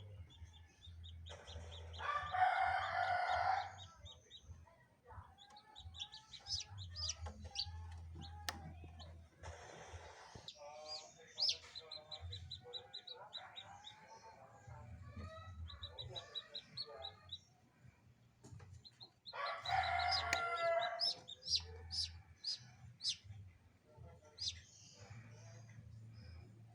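Newly hatched chicks peeping in quick runs of short, high calls inside an egg incubator. A rooster crows twice, once near the start and once about twenty seconds in, and a low hum starts and stops underneath.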